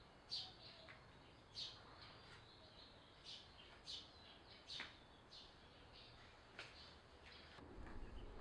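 Faint bird chirps, short high calls coming about once a second at irregular spacing, over near silence.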